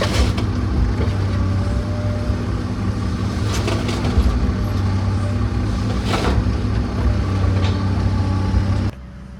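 Heavy machine engine running steadily, with several sharp cracks and knocks of a wooden porch being torn off a house. It cuts off abruptly about nine seconds in.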